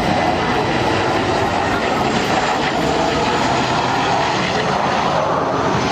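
Jet aircraft engines running, a loud steady rush of engine noise with a faint whine near the start.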